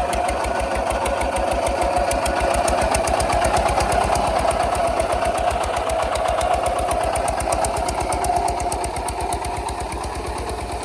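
Kubota RT 140 DI single-cylinder diesel engine running steadily with a fast, even beat, growing a little louder and then fading slowly near the end.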